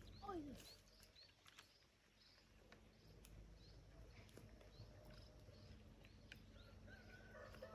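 Faint bird calls: repeated short, high rising chirps, a short call sliding down in pitch just after the start, and a longer held call beginning near the end.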